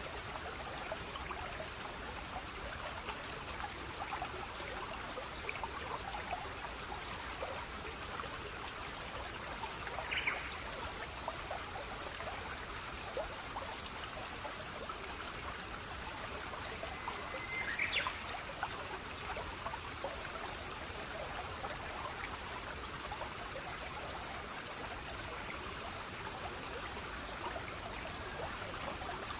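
Running water of a small stream trickling and babbling steadily. Two brief high chirps cut through it, about ten seconds in and again near eighteen seconds.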